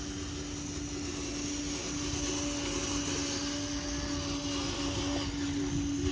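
Small electric motor of a hand-built RC construction truck running with a steady hum, joined by a fainter higher whine for a few seconds in the middle.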